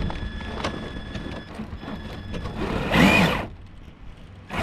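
Traxxas TRX4 RC crawler's electric drive motor running with a steady whine, then a louder burst about three seconds in whose pitch rises and falls as it is throttled while trying to climb. A sharp knock comes at the very end.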